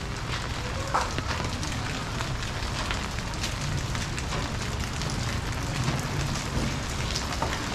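Steady rain falling, with many small sharp ticks of drops landing close by.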